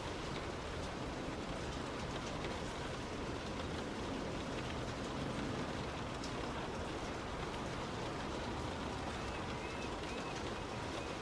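Heavy rain pattering steadily on a moving car, with scattered faint drop ticks.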